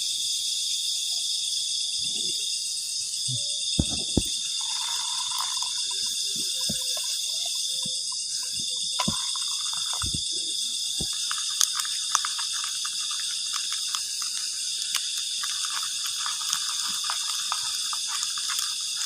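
Steady high-pitched chorus of night insects, with scattered knocks and clicks from camp cooking gear, and a faint crackle in the second half.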